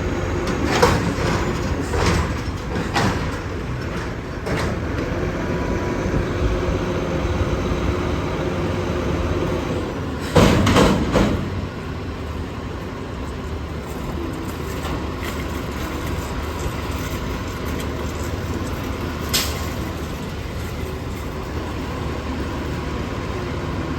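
Autocar Xpeditor diesel garbage truck running steadily, with several knocks in the first few seconds, a loud clattering crash about ten seconds in and a sharp click later.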